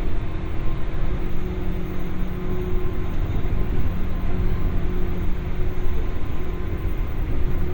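Running sound of a 201 series electric train heard from inside a MoHa 201 motor car: a steady rumble of wheels on rail with a faint, even motor hum, no stops or sudden knocks.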